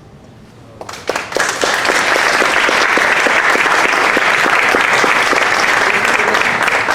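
Audience applauding, breaking out about a second in at the end of a guitar ensemble's piece.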